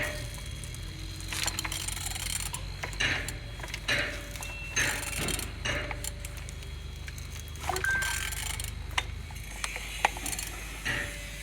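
Engine being turned over by hand with a wrench on the crankshaft: irregular ratchet clicks and short metallic rattles every second or two. The engine turns freely, a sign it is not seized.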